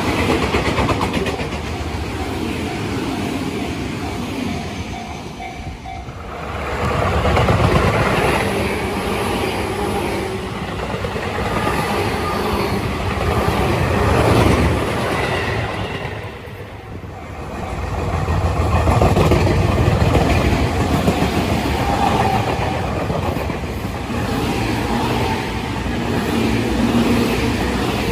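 Tobu Tojo Line electric commuter trains passing over a level crossing, wheels clacking over the rail joints, the sound swelling and easing with brief lulls about six and seventeen seconds in. A level-crossing warning bell rings in the first seconds and again near the end.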